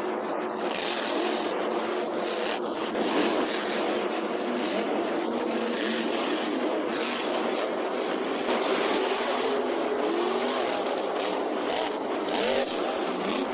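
Grave Digger monster truck's supercharged V8 engine running loud and continuous, its pitch rising and falling as the throttle is worked hard during a freestyle run.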